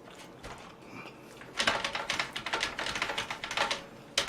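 A dense run of quick crackling clicks lasting about two seconds, then one sharp click near the end: the sound of handling crisp food or its wrapping at the table.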